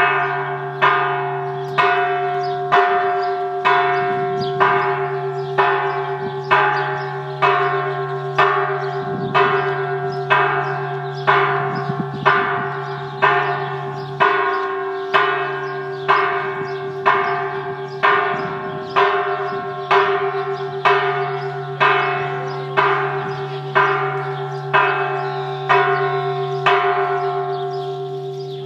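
A single church bell tolling, struck about once a second at the same pitch each time, ringing on between strikes. The strikes stop near the end and the last one rings away.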